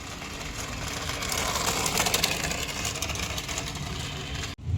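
Toy remote-control car running: a steady buzzing hiss with many small clicks, growing louder through the middle and cutting off abruptly near the end.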